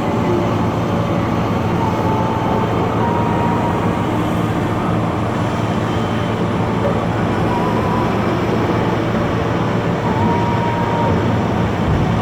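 Cat 992G wheel loader's large diesel engine running hard and steady while loading limestone, with a thin whine that comes and goes over the engine.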